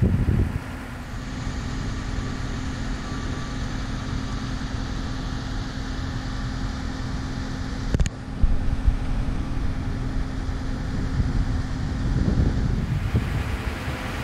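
An engine running steadily: a low rumble with a constant hum. The sound breaks off abruptly about eight seconds in and resumes at once.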